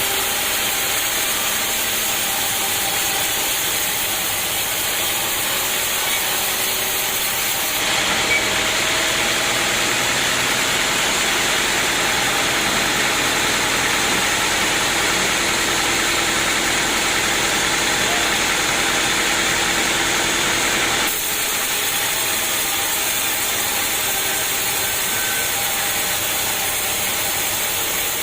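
Engine of a sawmill running steadily. From about eight seconds in to about twenty-one seconds in, a louder, hissier noise joins it and then cuts off sharply.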